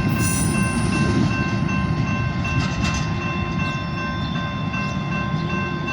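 Freight train rolling past with a steady rumble of wheels on rail. A steady high ringing tone of several pitches runs over the rumble.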